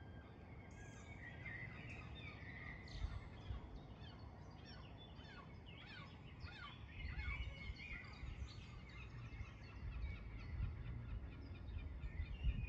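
Small birds chirping and calling outdoors, a run of short falling chirps, over a low rumbling background noise that swells now and then.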